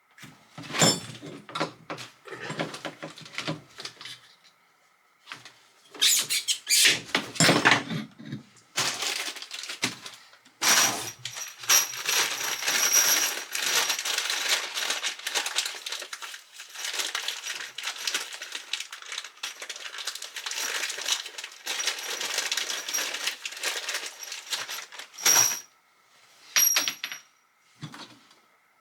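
Plumbing work on pipework and fittings: a run of knocks and clicks, then a continuous scratchy noise with a faint high whine lasting about fourteen seconds, and a few sharp clicks near the end.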